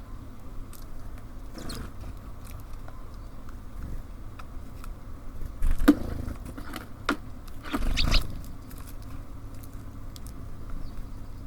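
Small birds tapping and knocking at a bird feeder over a steady low rumble. Two louder thumps come about six and eight seconds in.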